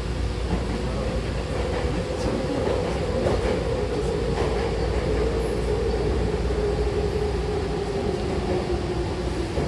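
Hankyu Takarazuka Line electric train running with a low rumble and a steady whine that slowly falls in pitch, with a few faint knocks.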